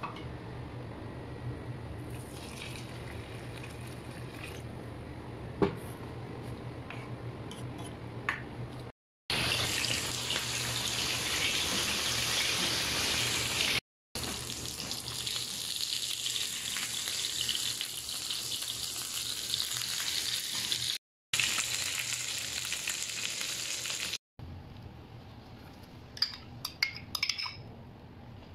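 Chicken pieces frying in oil in a pan, a steady loud sizzle broken by a few short edits. Before it comes a quieter stretch with a low steady hum and one sharp click. Near the end a spoon clinks several times against a bowl while stirring yogurt sauce.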